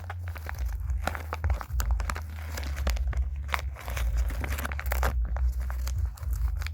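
Packaging being handled and unwrapped by hand: irregular crinkling and rustling with many small crackles, over a low steady hum.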